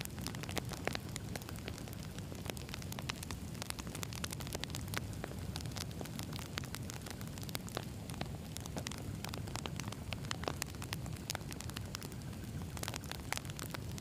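Wood campfire burning, with dense irregular crackles and pops of firewood over a steady low rumble of the flames.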